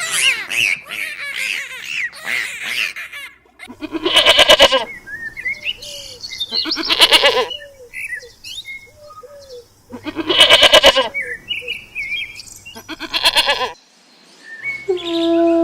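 Four loud, wavering bleats from a goat or sheep, about three seconds apart. Small birds chirp and peep throughout, busiest in the first three seconds.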